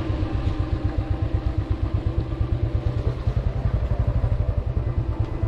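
Motorcycle engine running steadily while riding, with an even, rapid pulsing beat.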